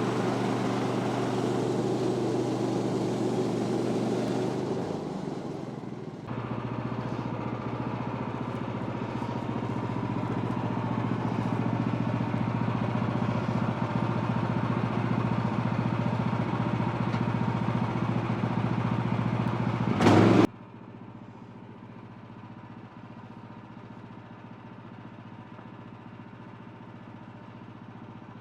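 Woodland Mills HM126 bandsaw mill's gas engine running at high speed, dipping briefly about five seconds in. About twenty seconds in, after a short loud burst, it drops suddenly to a quieter idle.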